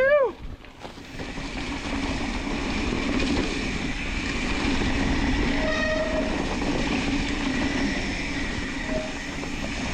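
Mountain bike rolling over a wet trail: steady tyre and drivetrain noise. Brief squeals of wet disc brakes sound twice, one at the start rising then falling in pitch and a shorter one about six seconds in.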